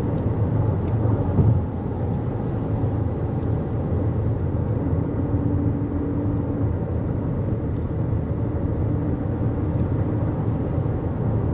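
Steady road and tyre noise of a 2024 Toyota Corolla Cross driving at highway speed. A faint steady hum comes in twice, about five seconds in and again near the end.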